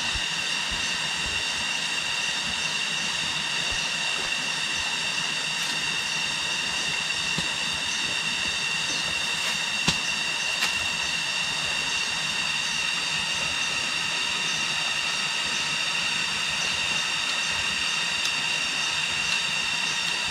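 A steady high-pitched drone with several even overtones, unchanging throughout, with one brief click about halfway through.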